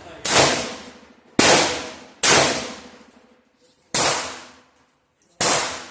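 Five gunshots fired at an uneven pace, each a sharp crack with a short ringing tail.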